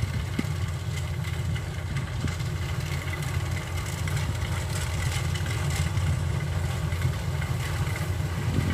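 Diesel engine of a Kubota DC93 rice combine harvester running steadily at an even speed.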